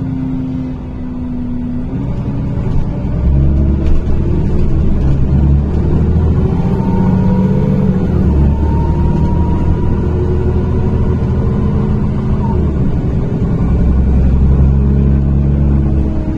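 NefAZ-5299 city bus heard from inside the cabin while under way: the engine runs with a deep steady drone that grows louder about three seconds in, and a fainter whine climbs slowly in pitch as the bus gathers speed.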